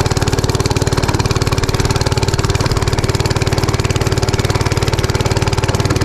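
A 90cc mini bike engine running steadily at low throttle, its firing pulses even with no revving. It is labouring under a rider heavier than it is rated for and is barely moving him.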